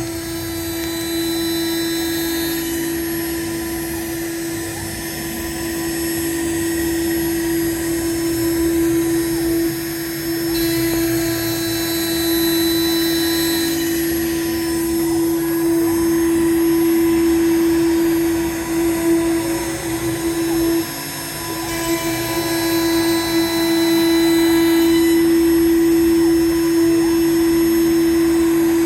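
PrintNC CNC router milling with a 25 mm three-flute EAP300R face mill with PCD inserts, taking a light 0.1 mm finishing pass. The spindle and cut make a steady, even tone over cutting noise, with a brief dip about two-thirds of the way through.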